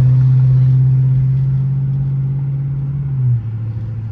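Chrysler 300C's 5.7-litre Hemi V8 droning steadily under throttle, heard from inside the cabin. A little over three seconds in, the drone drops suddenly in loudness and slightly in pitch.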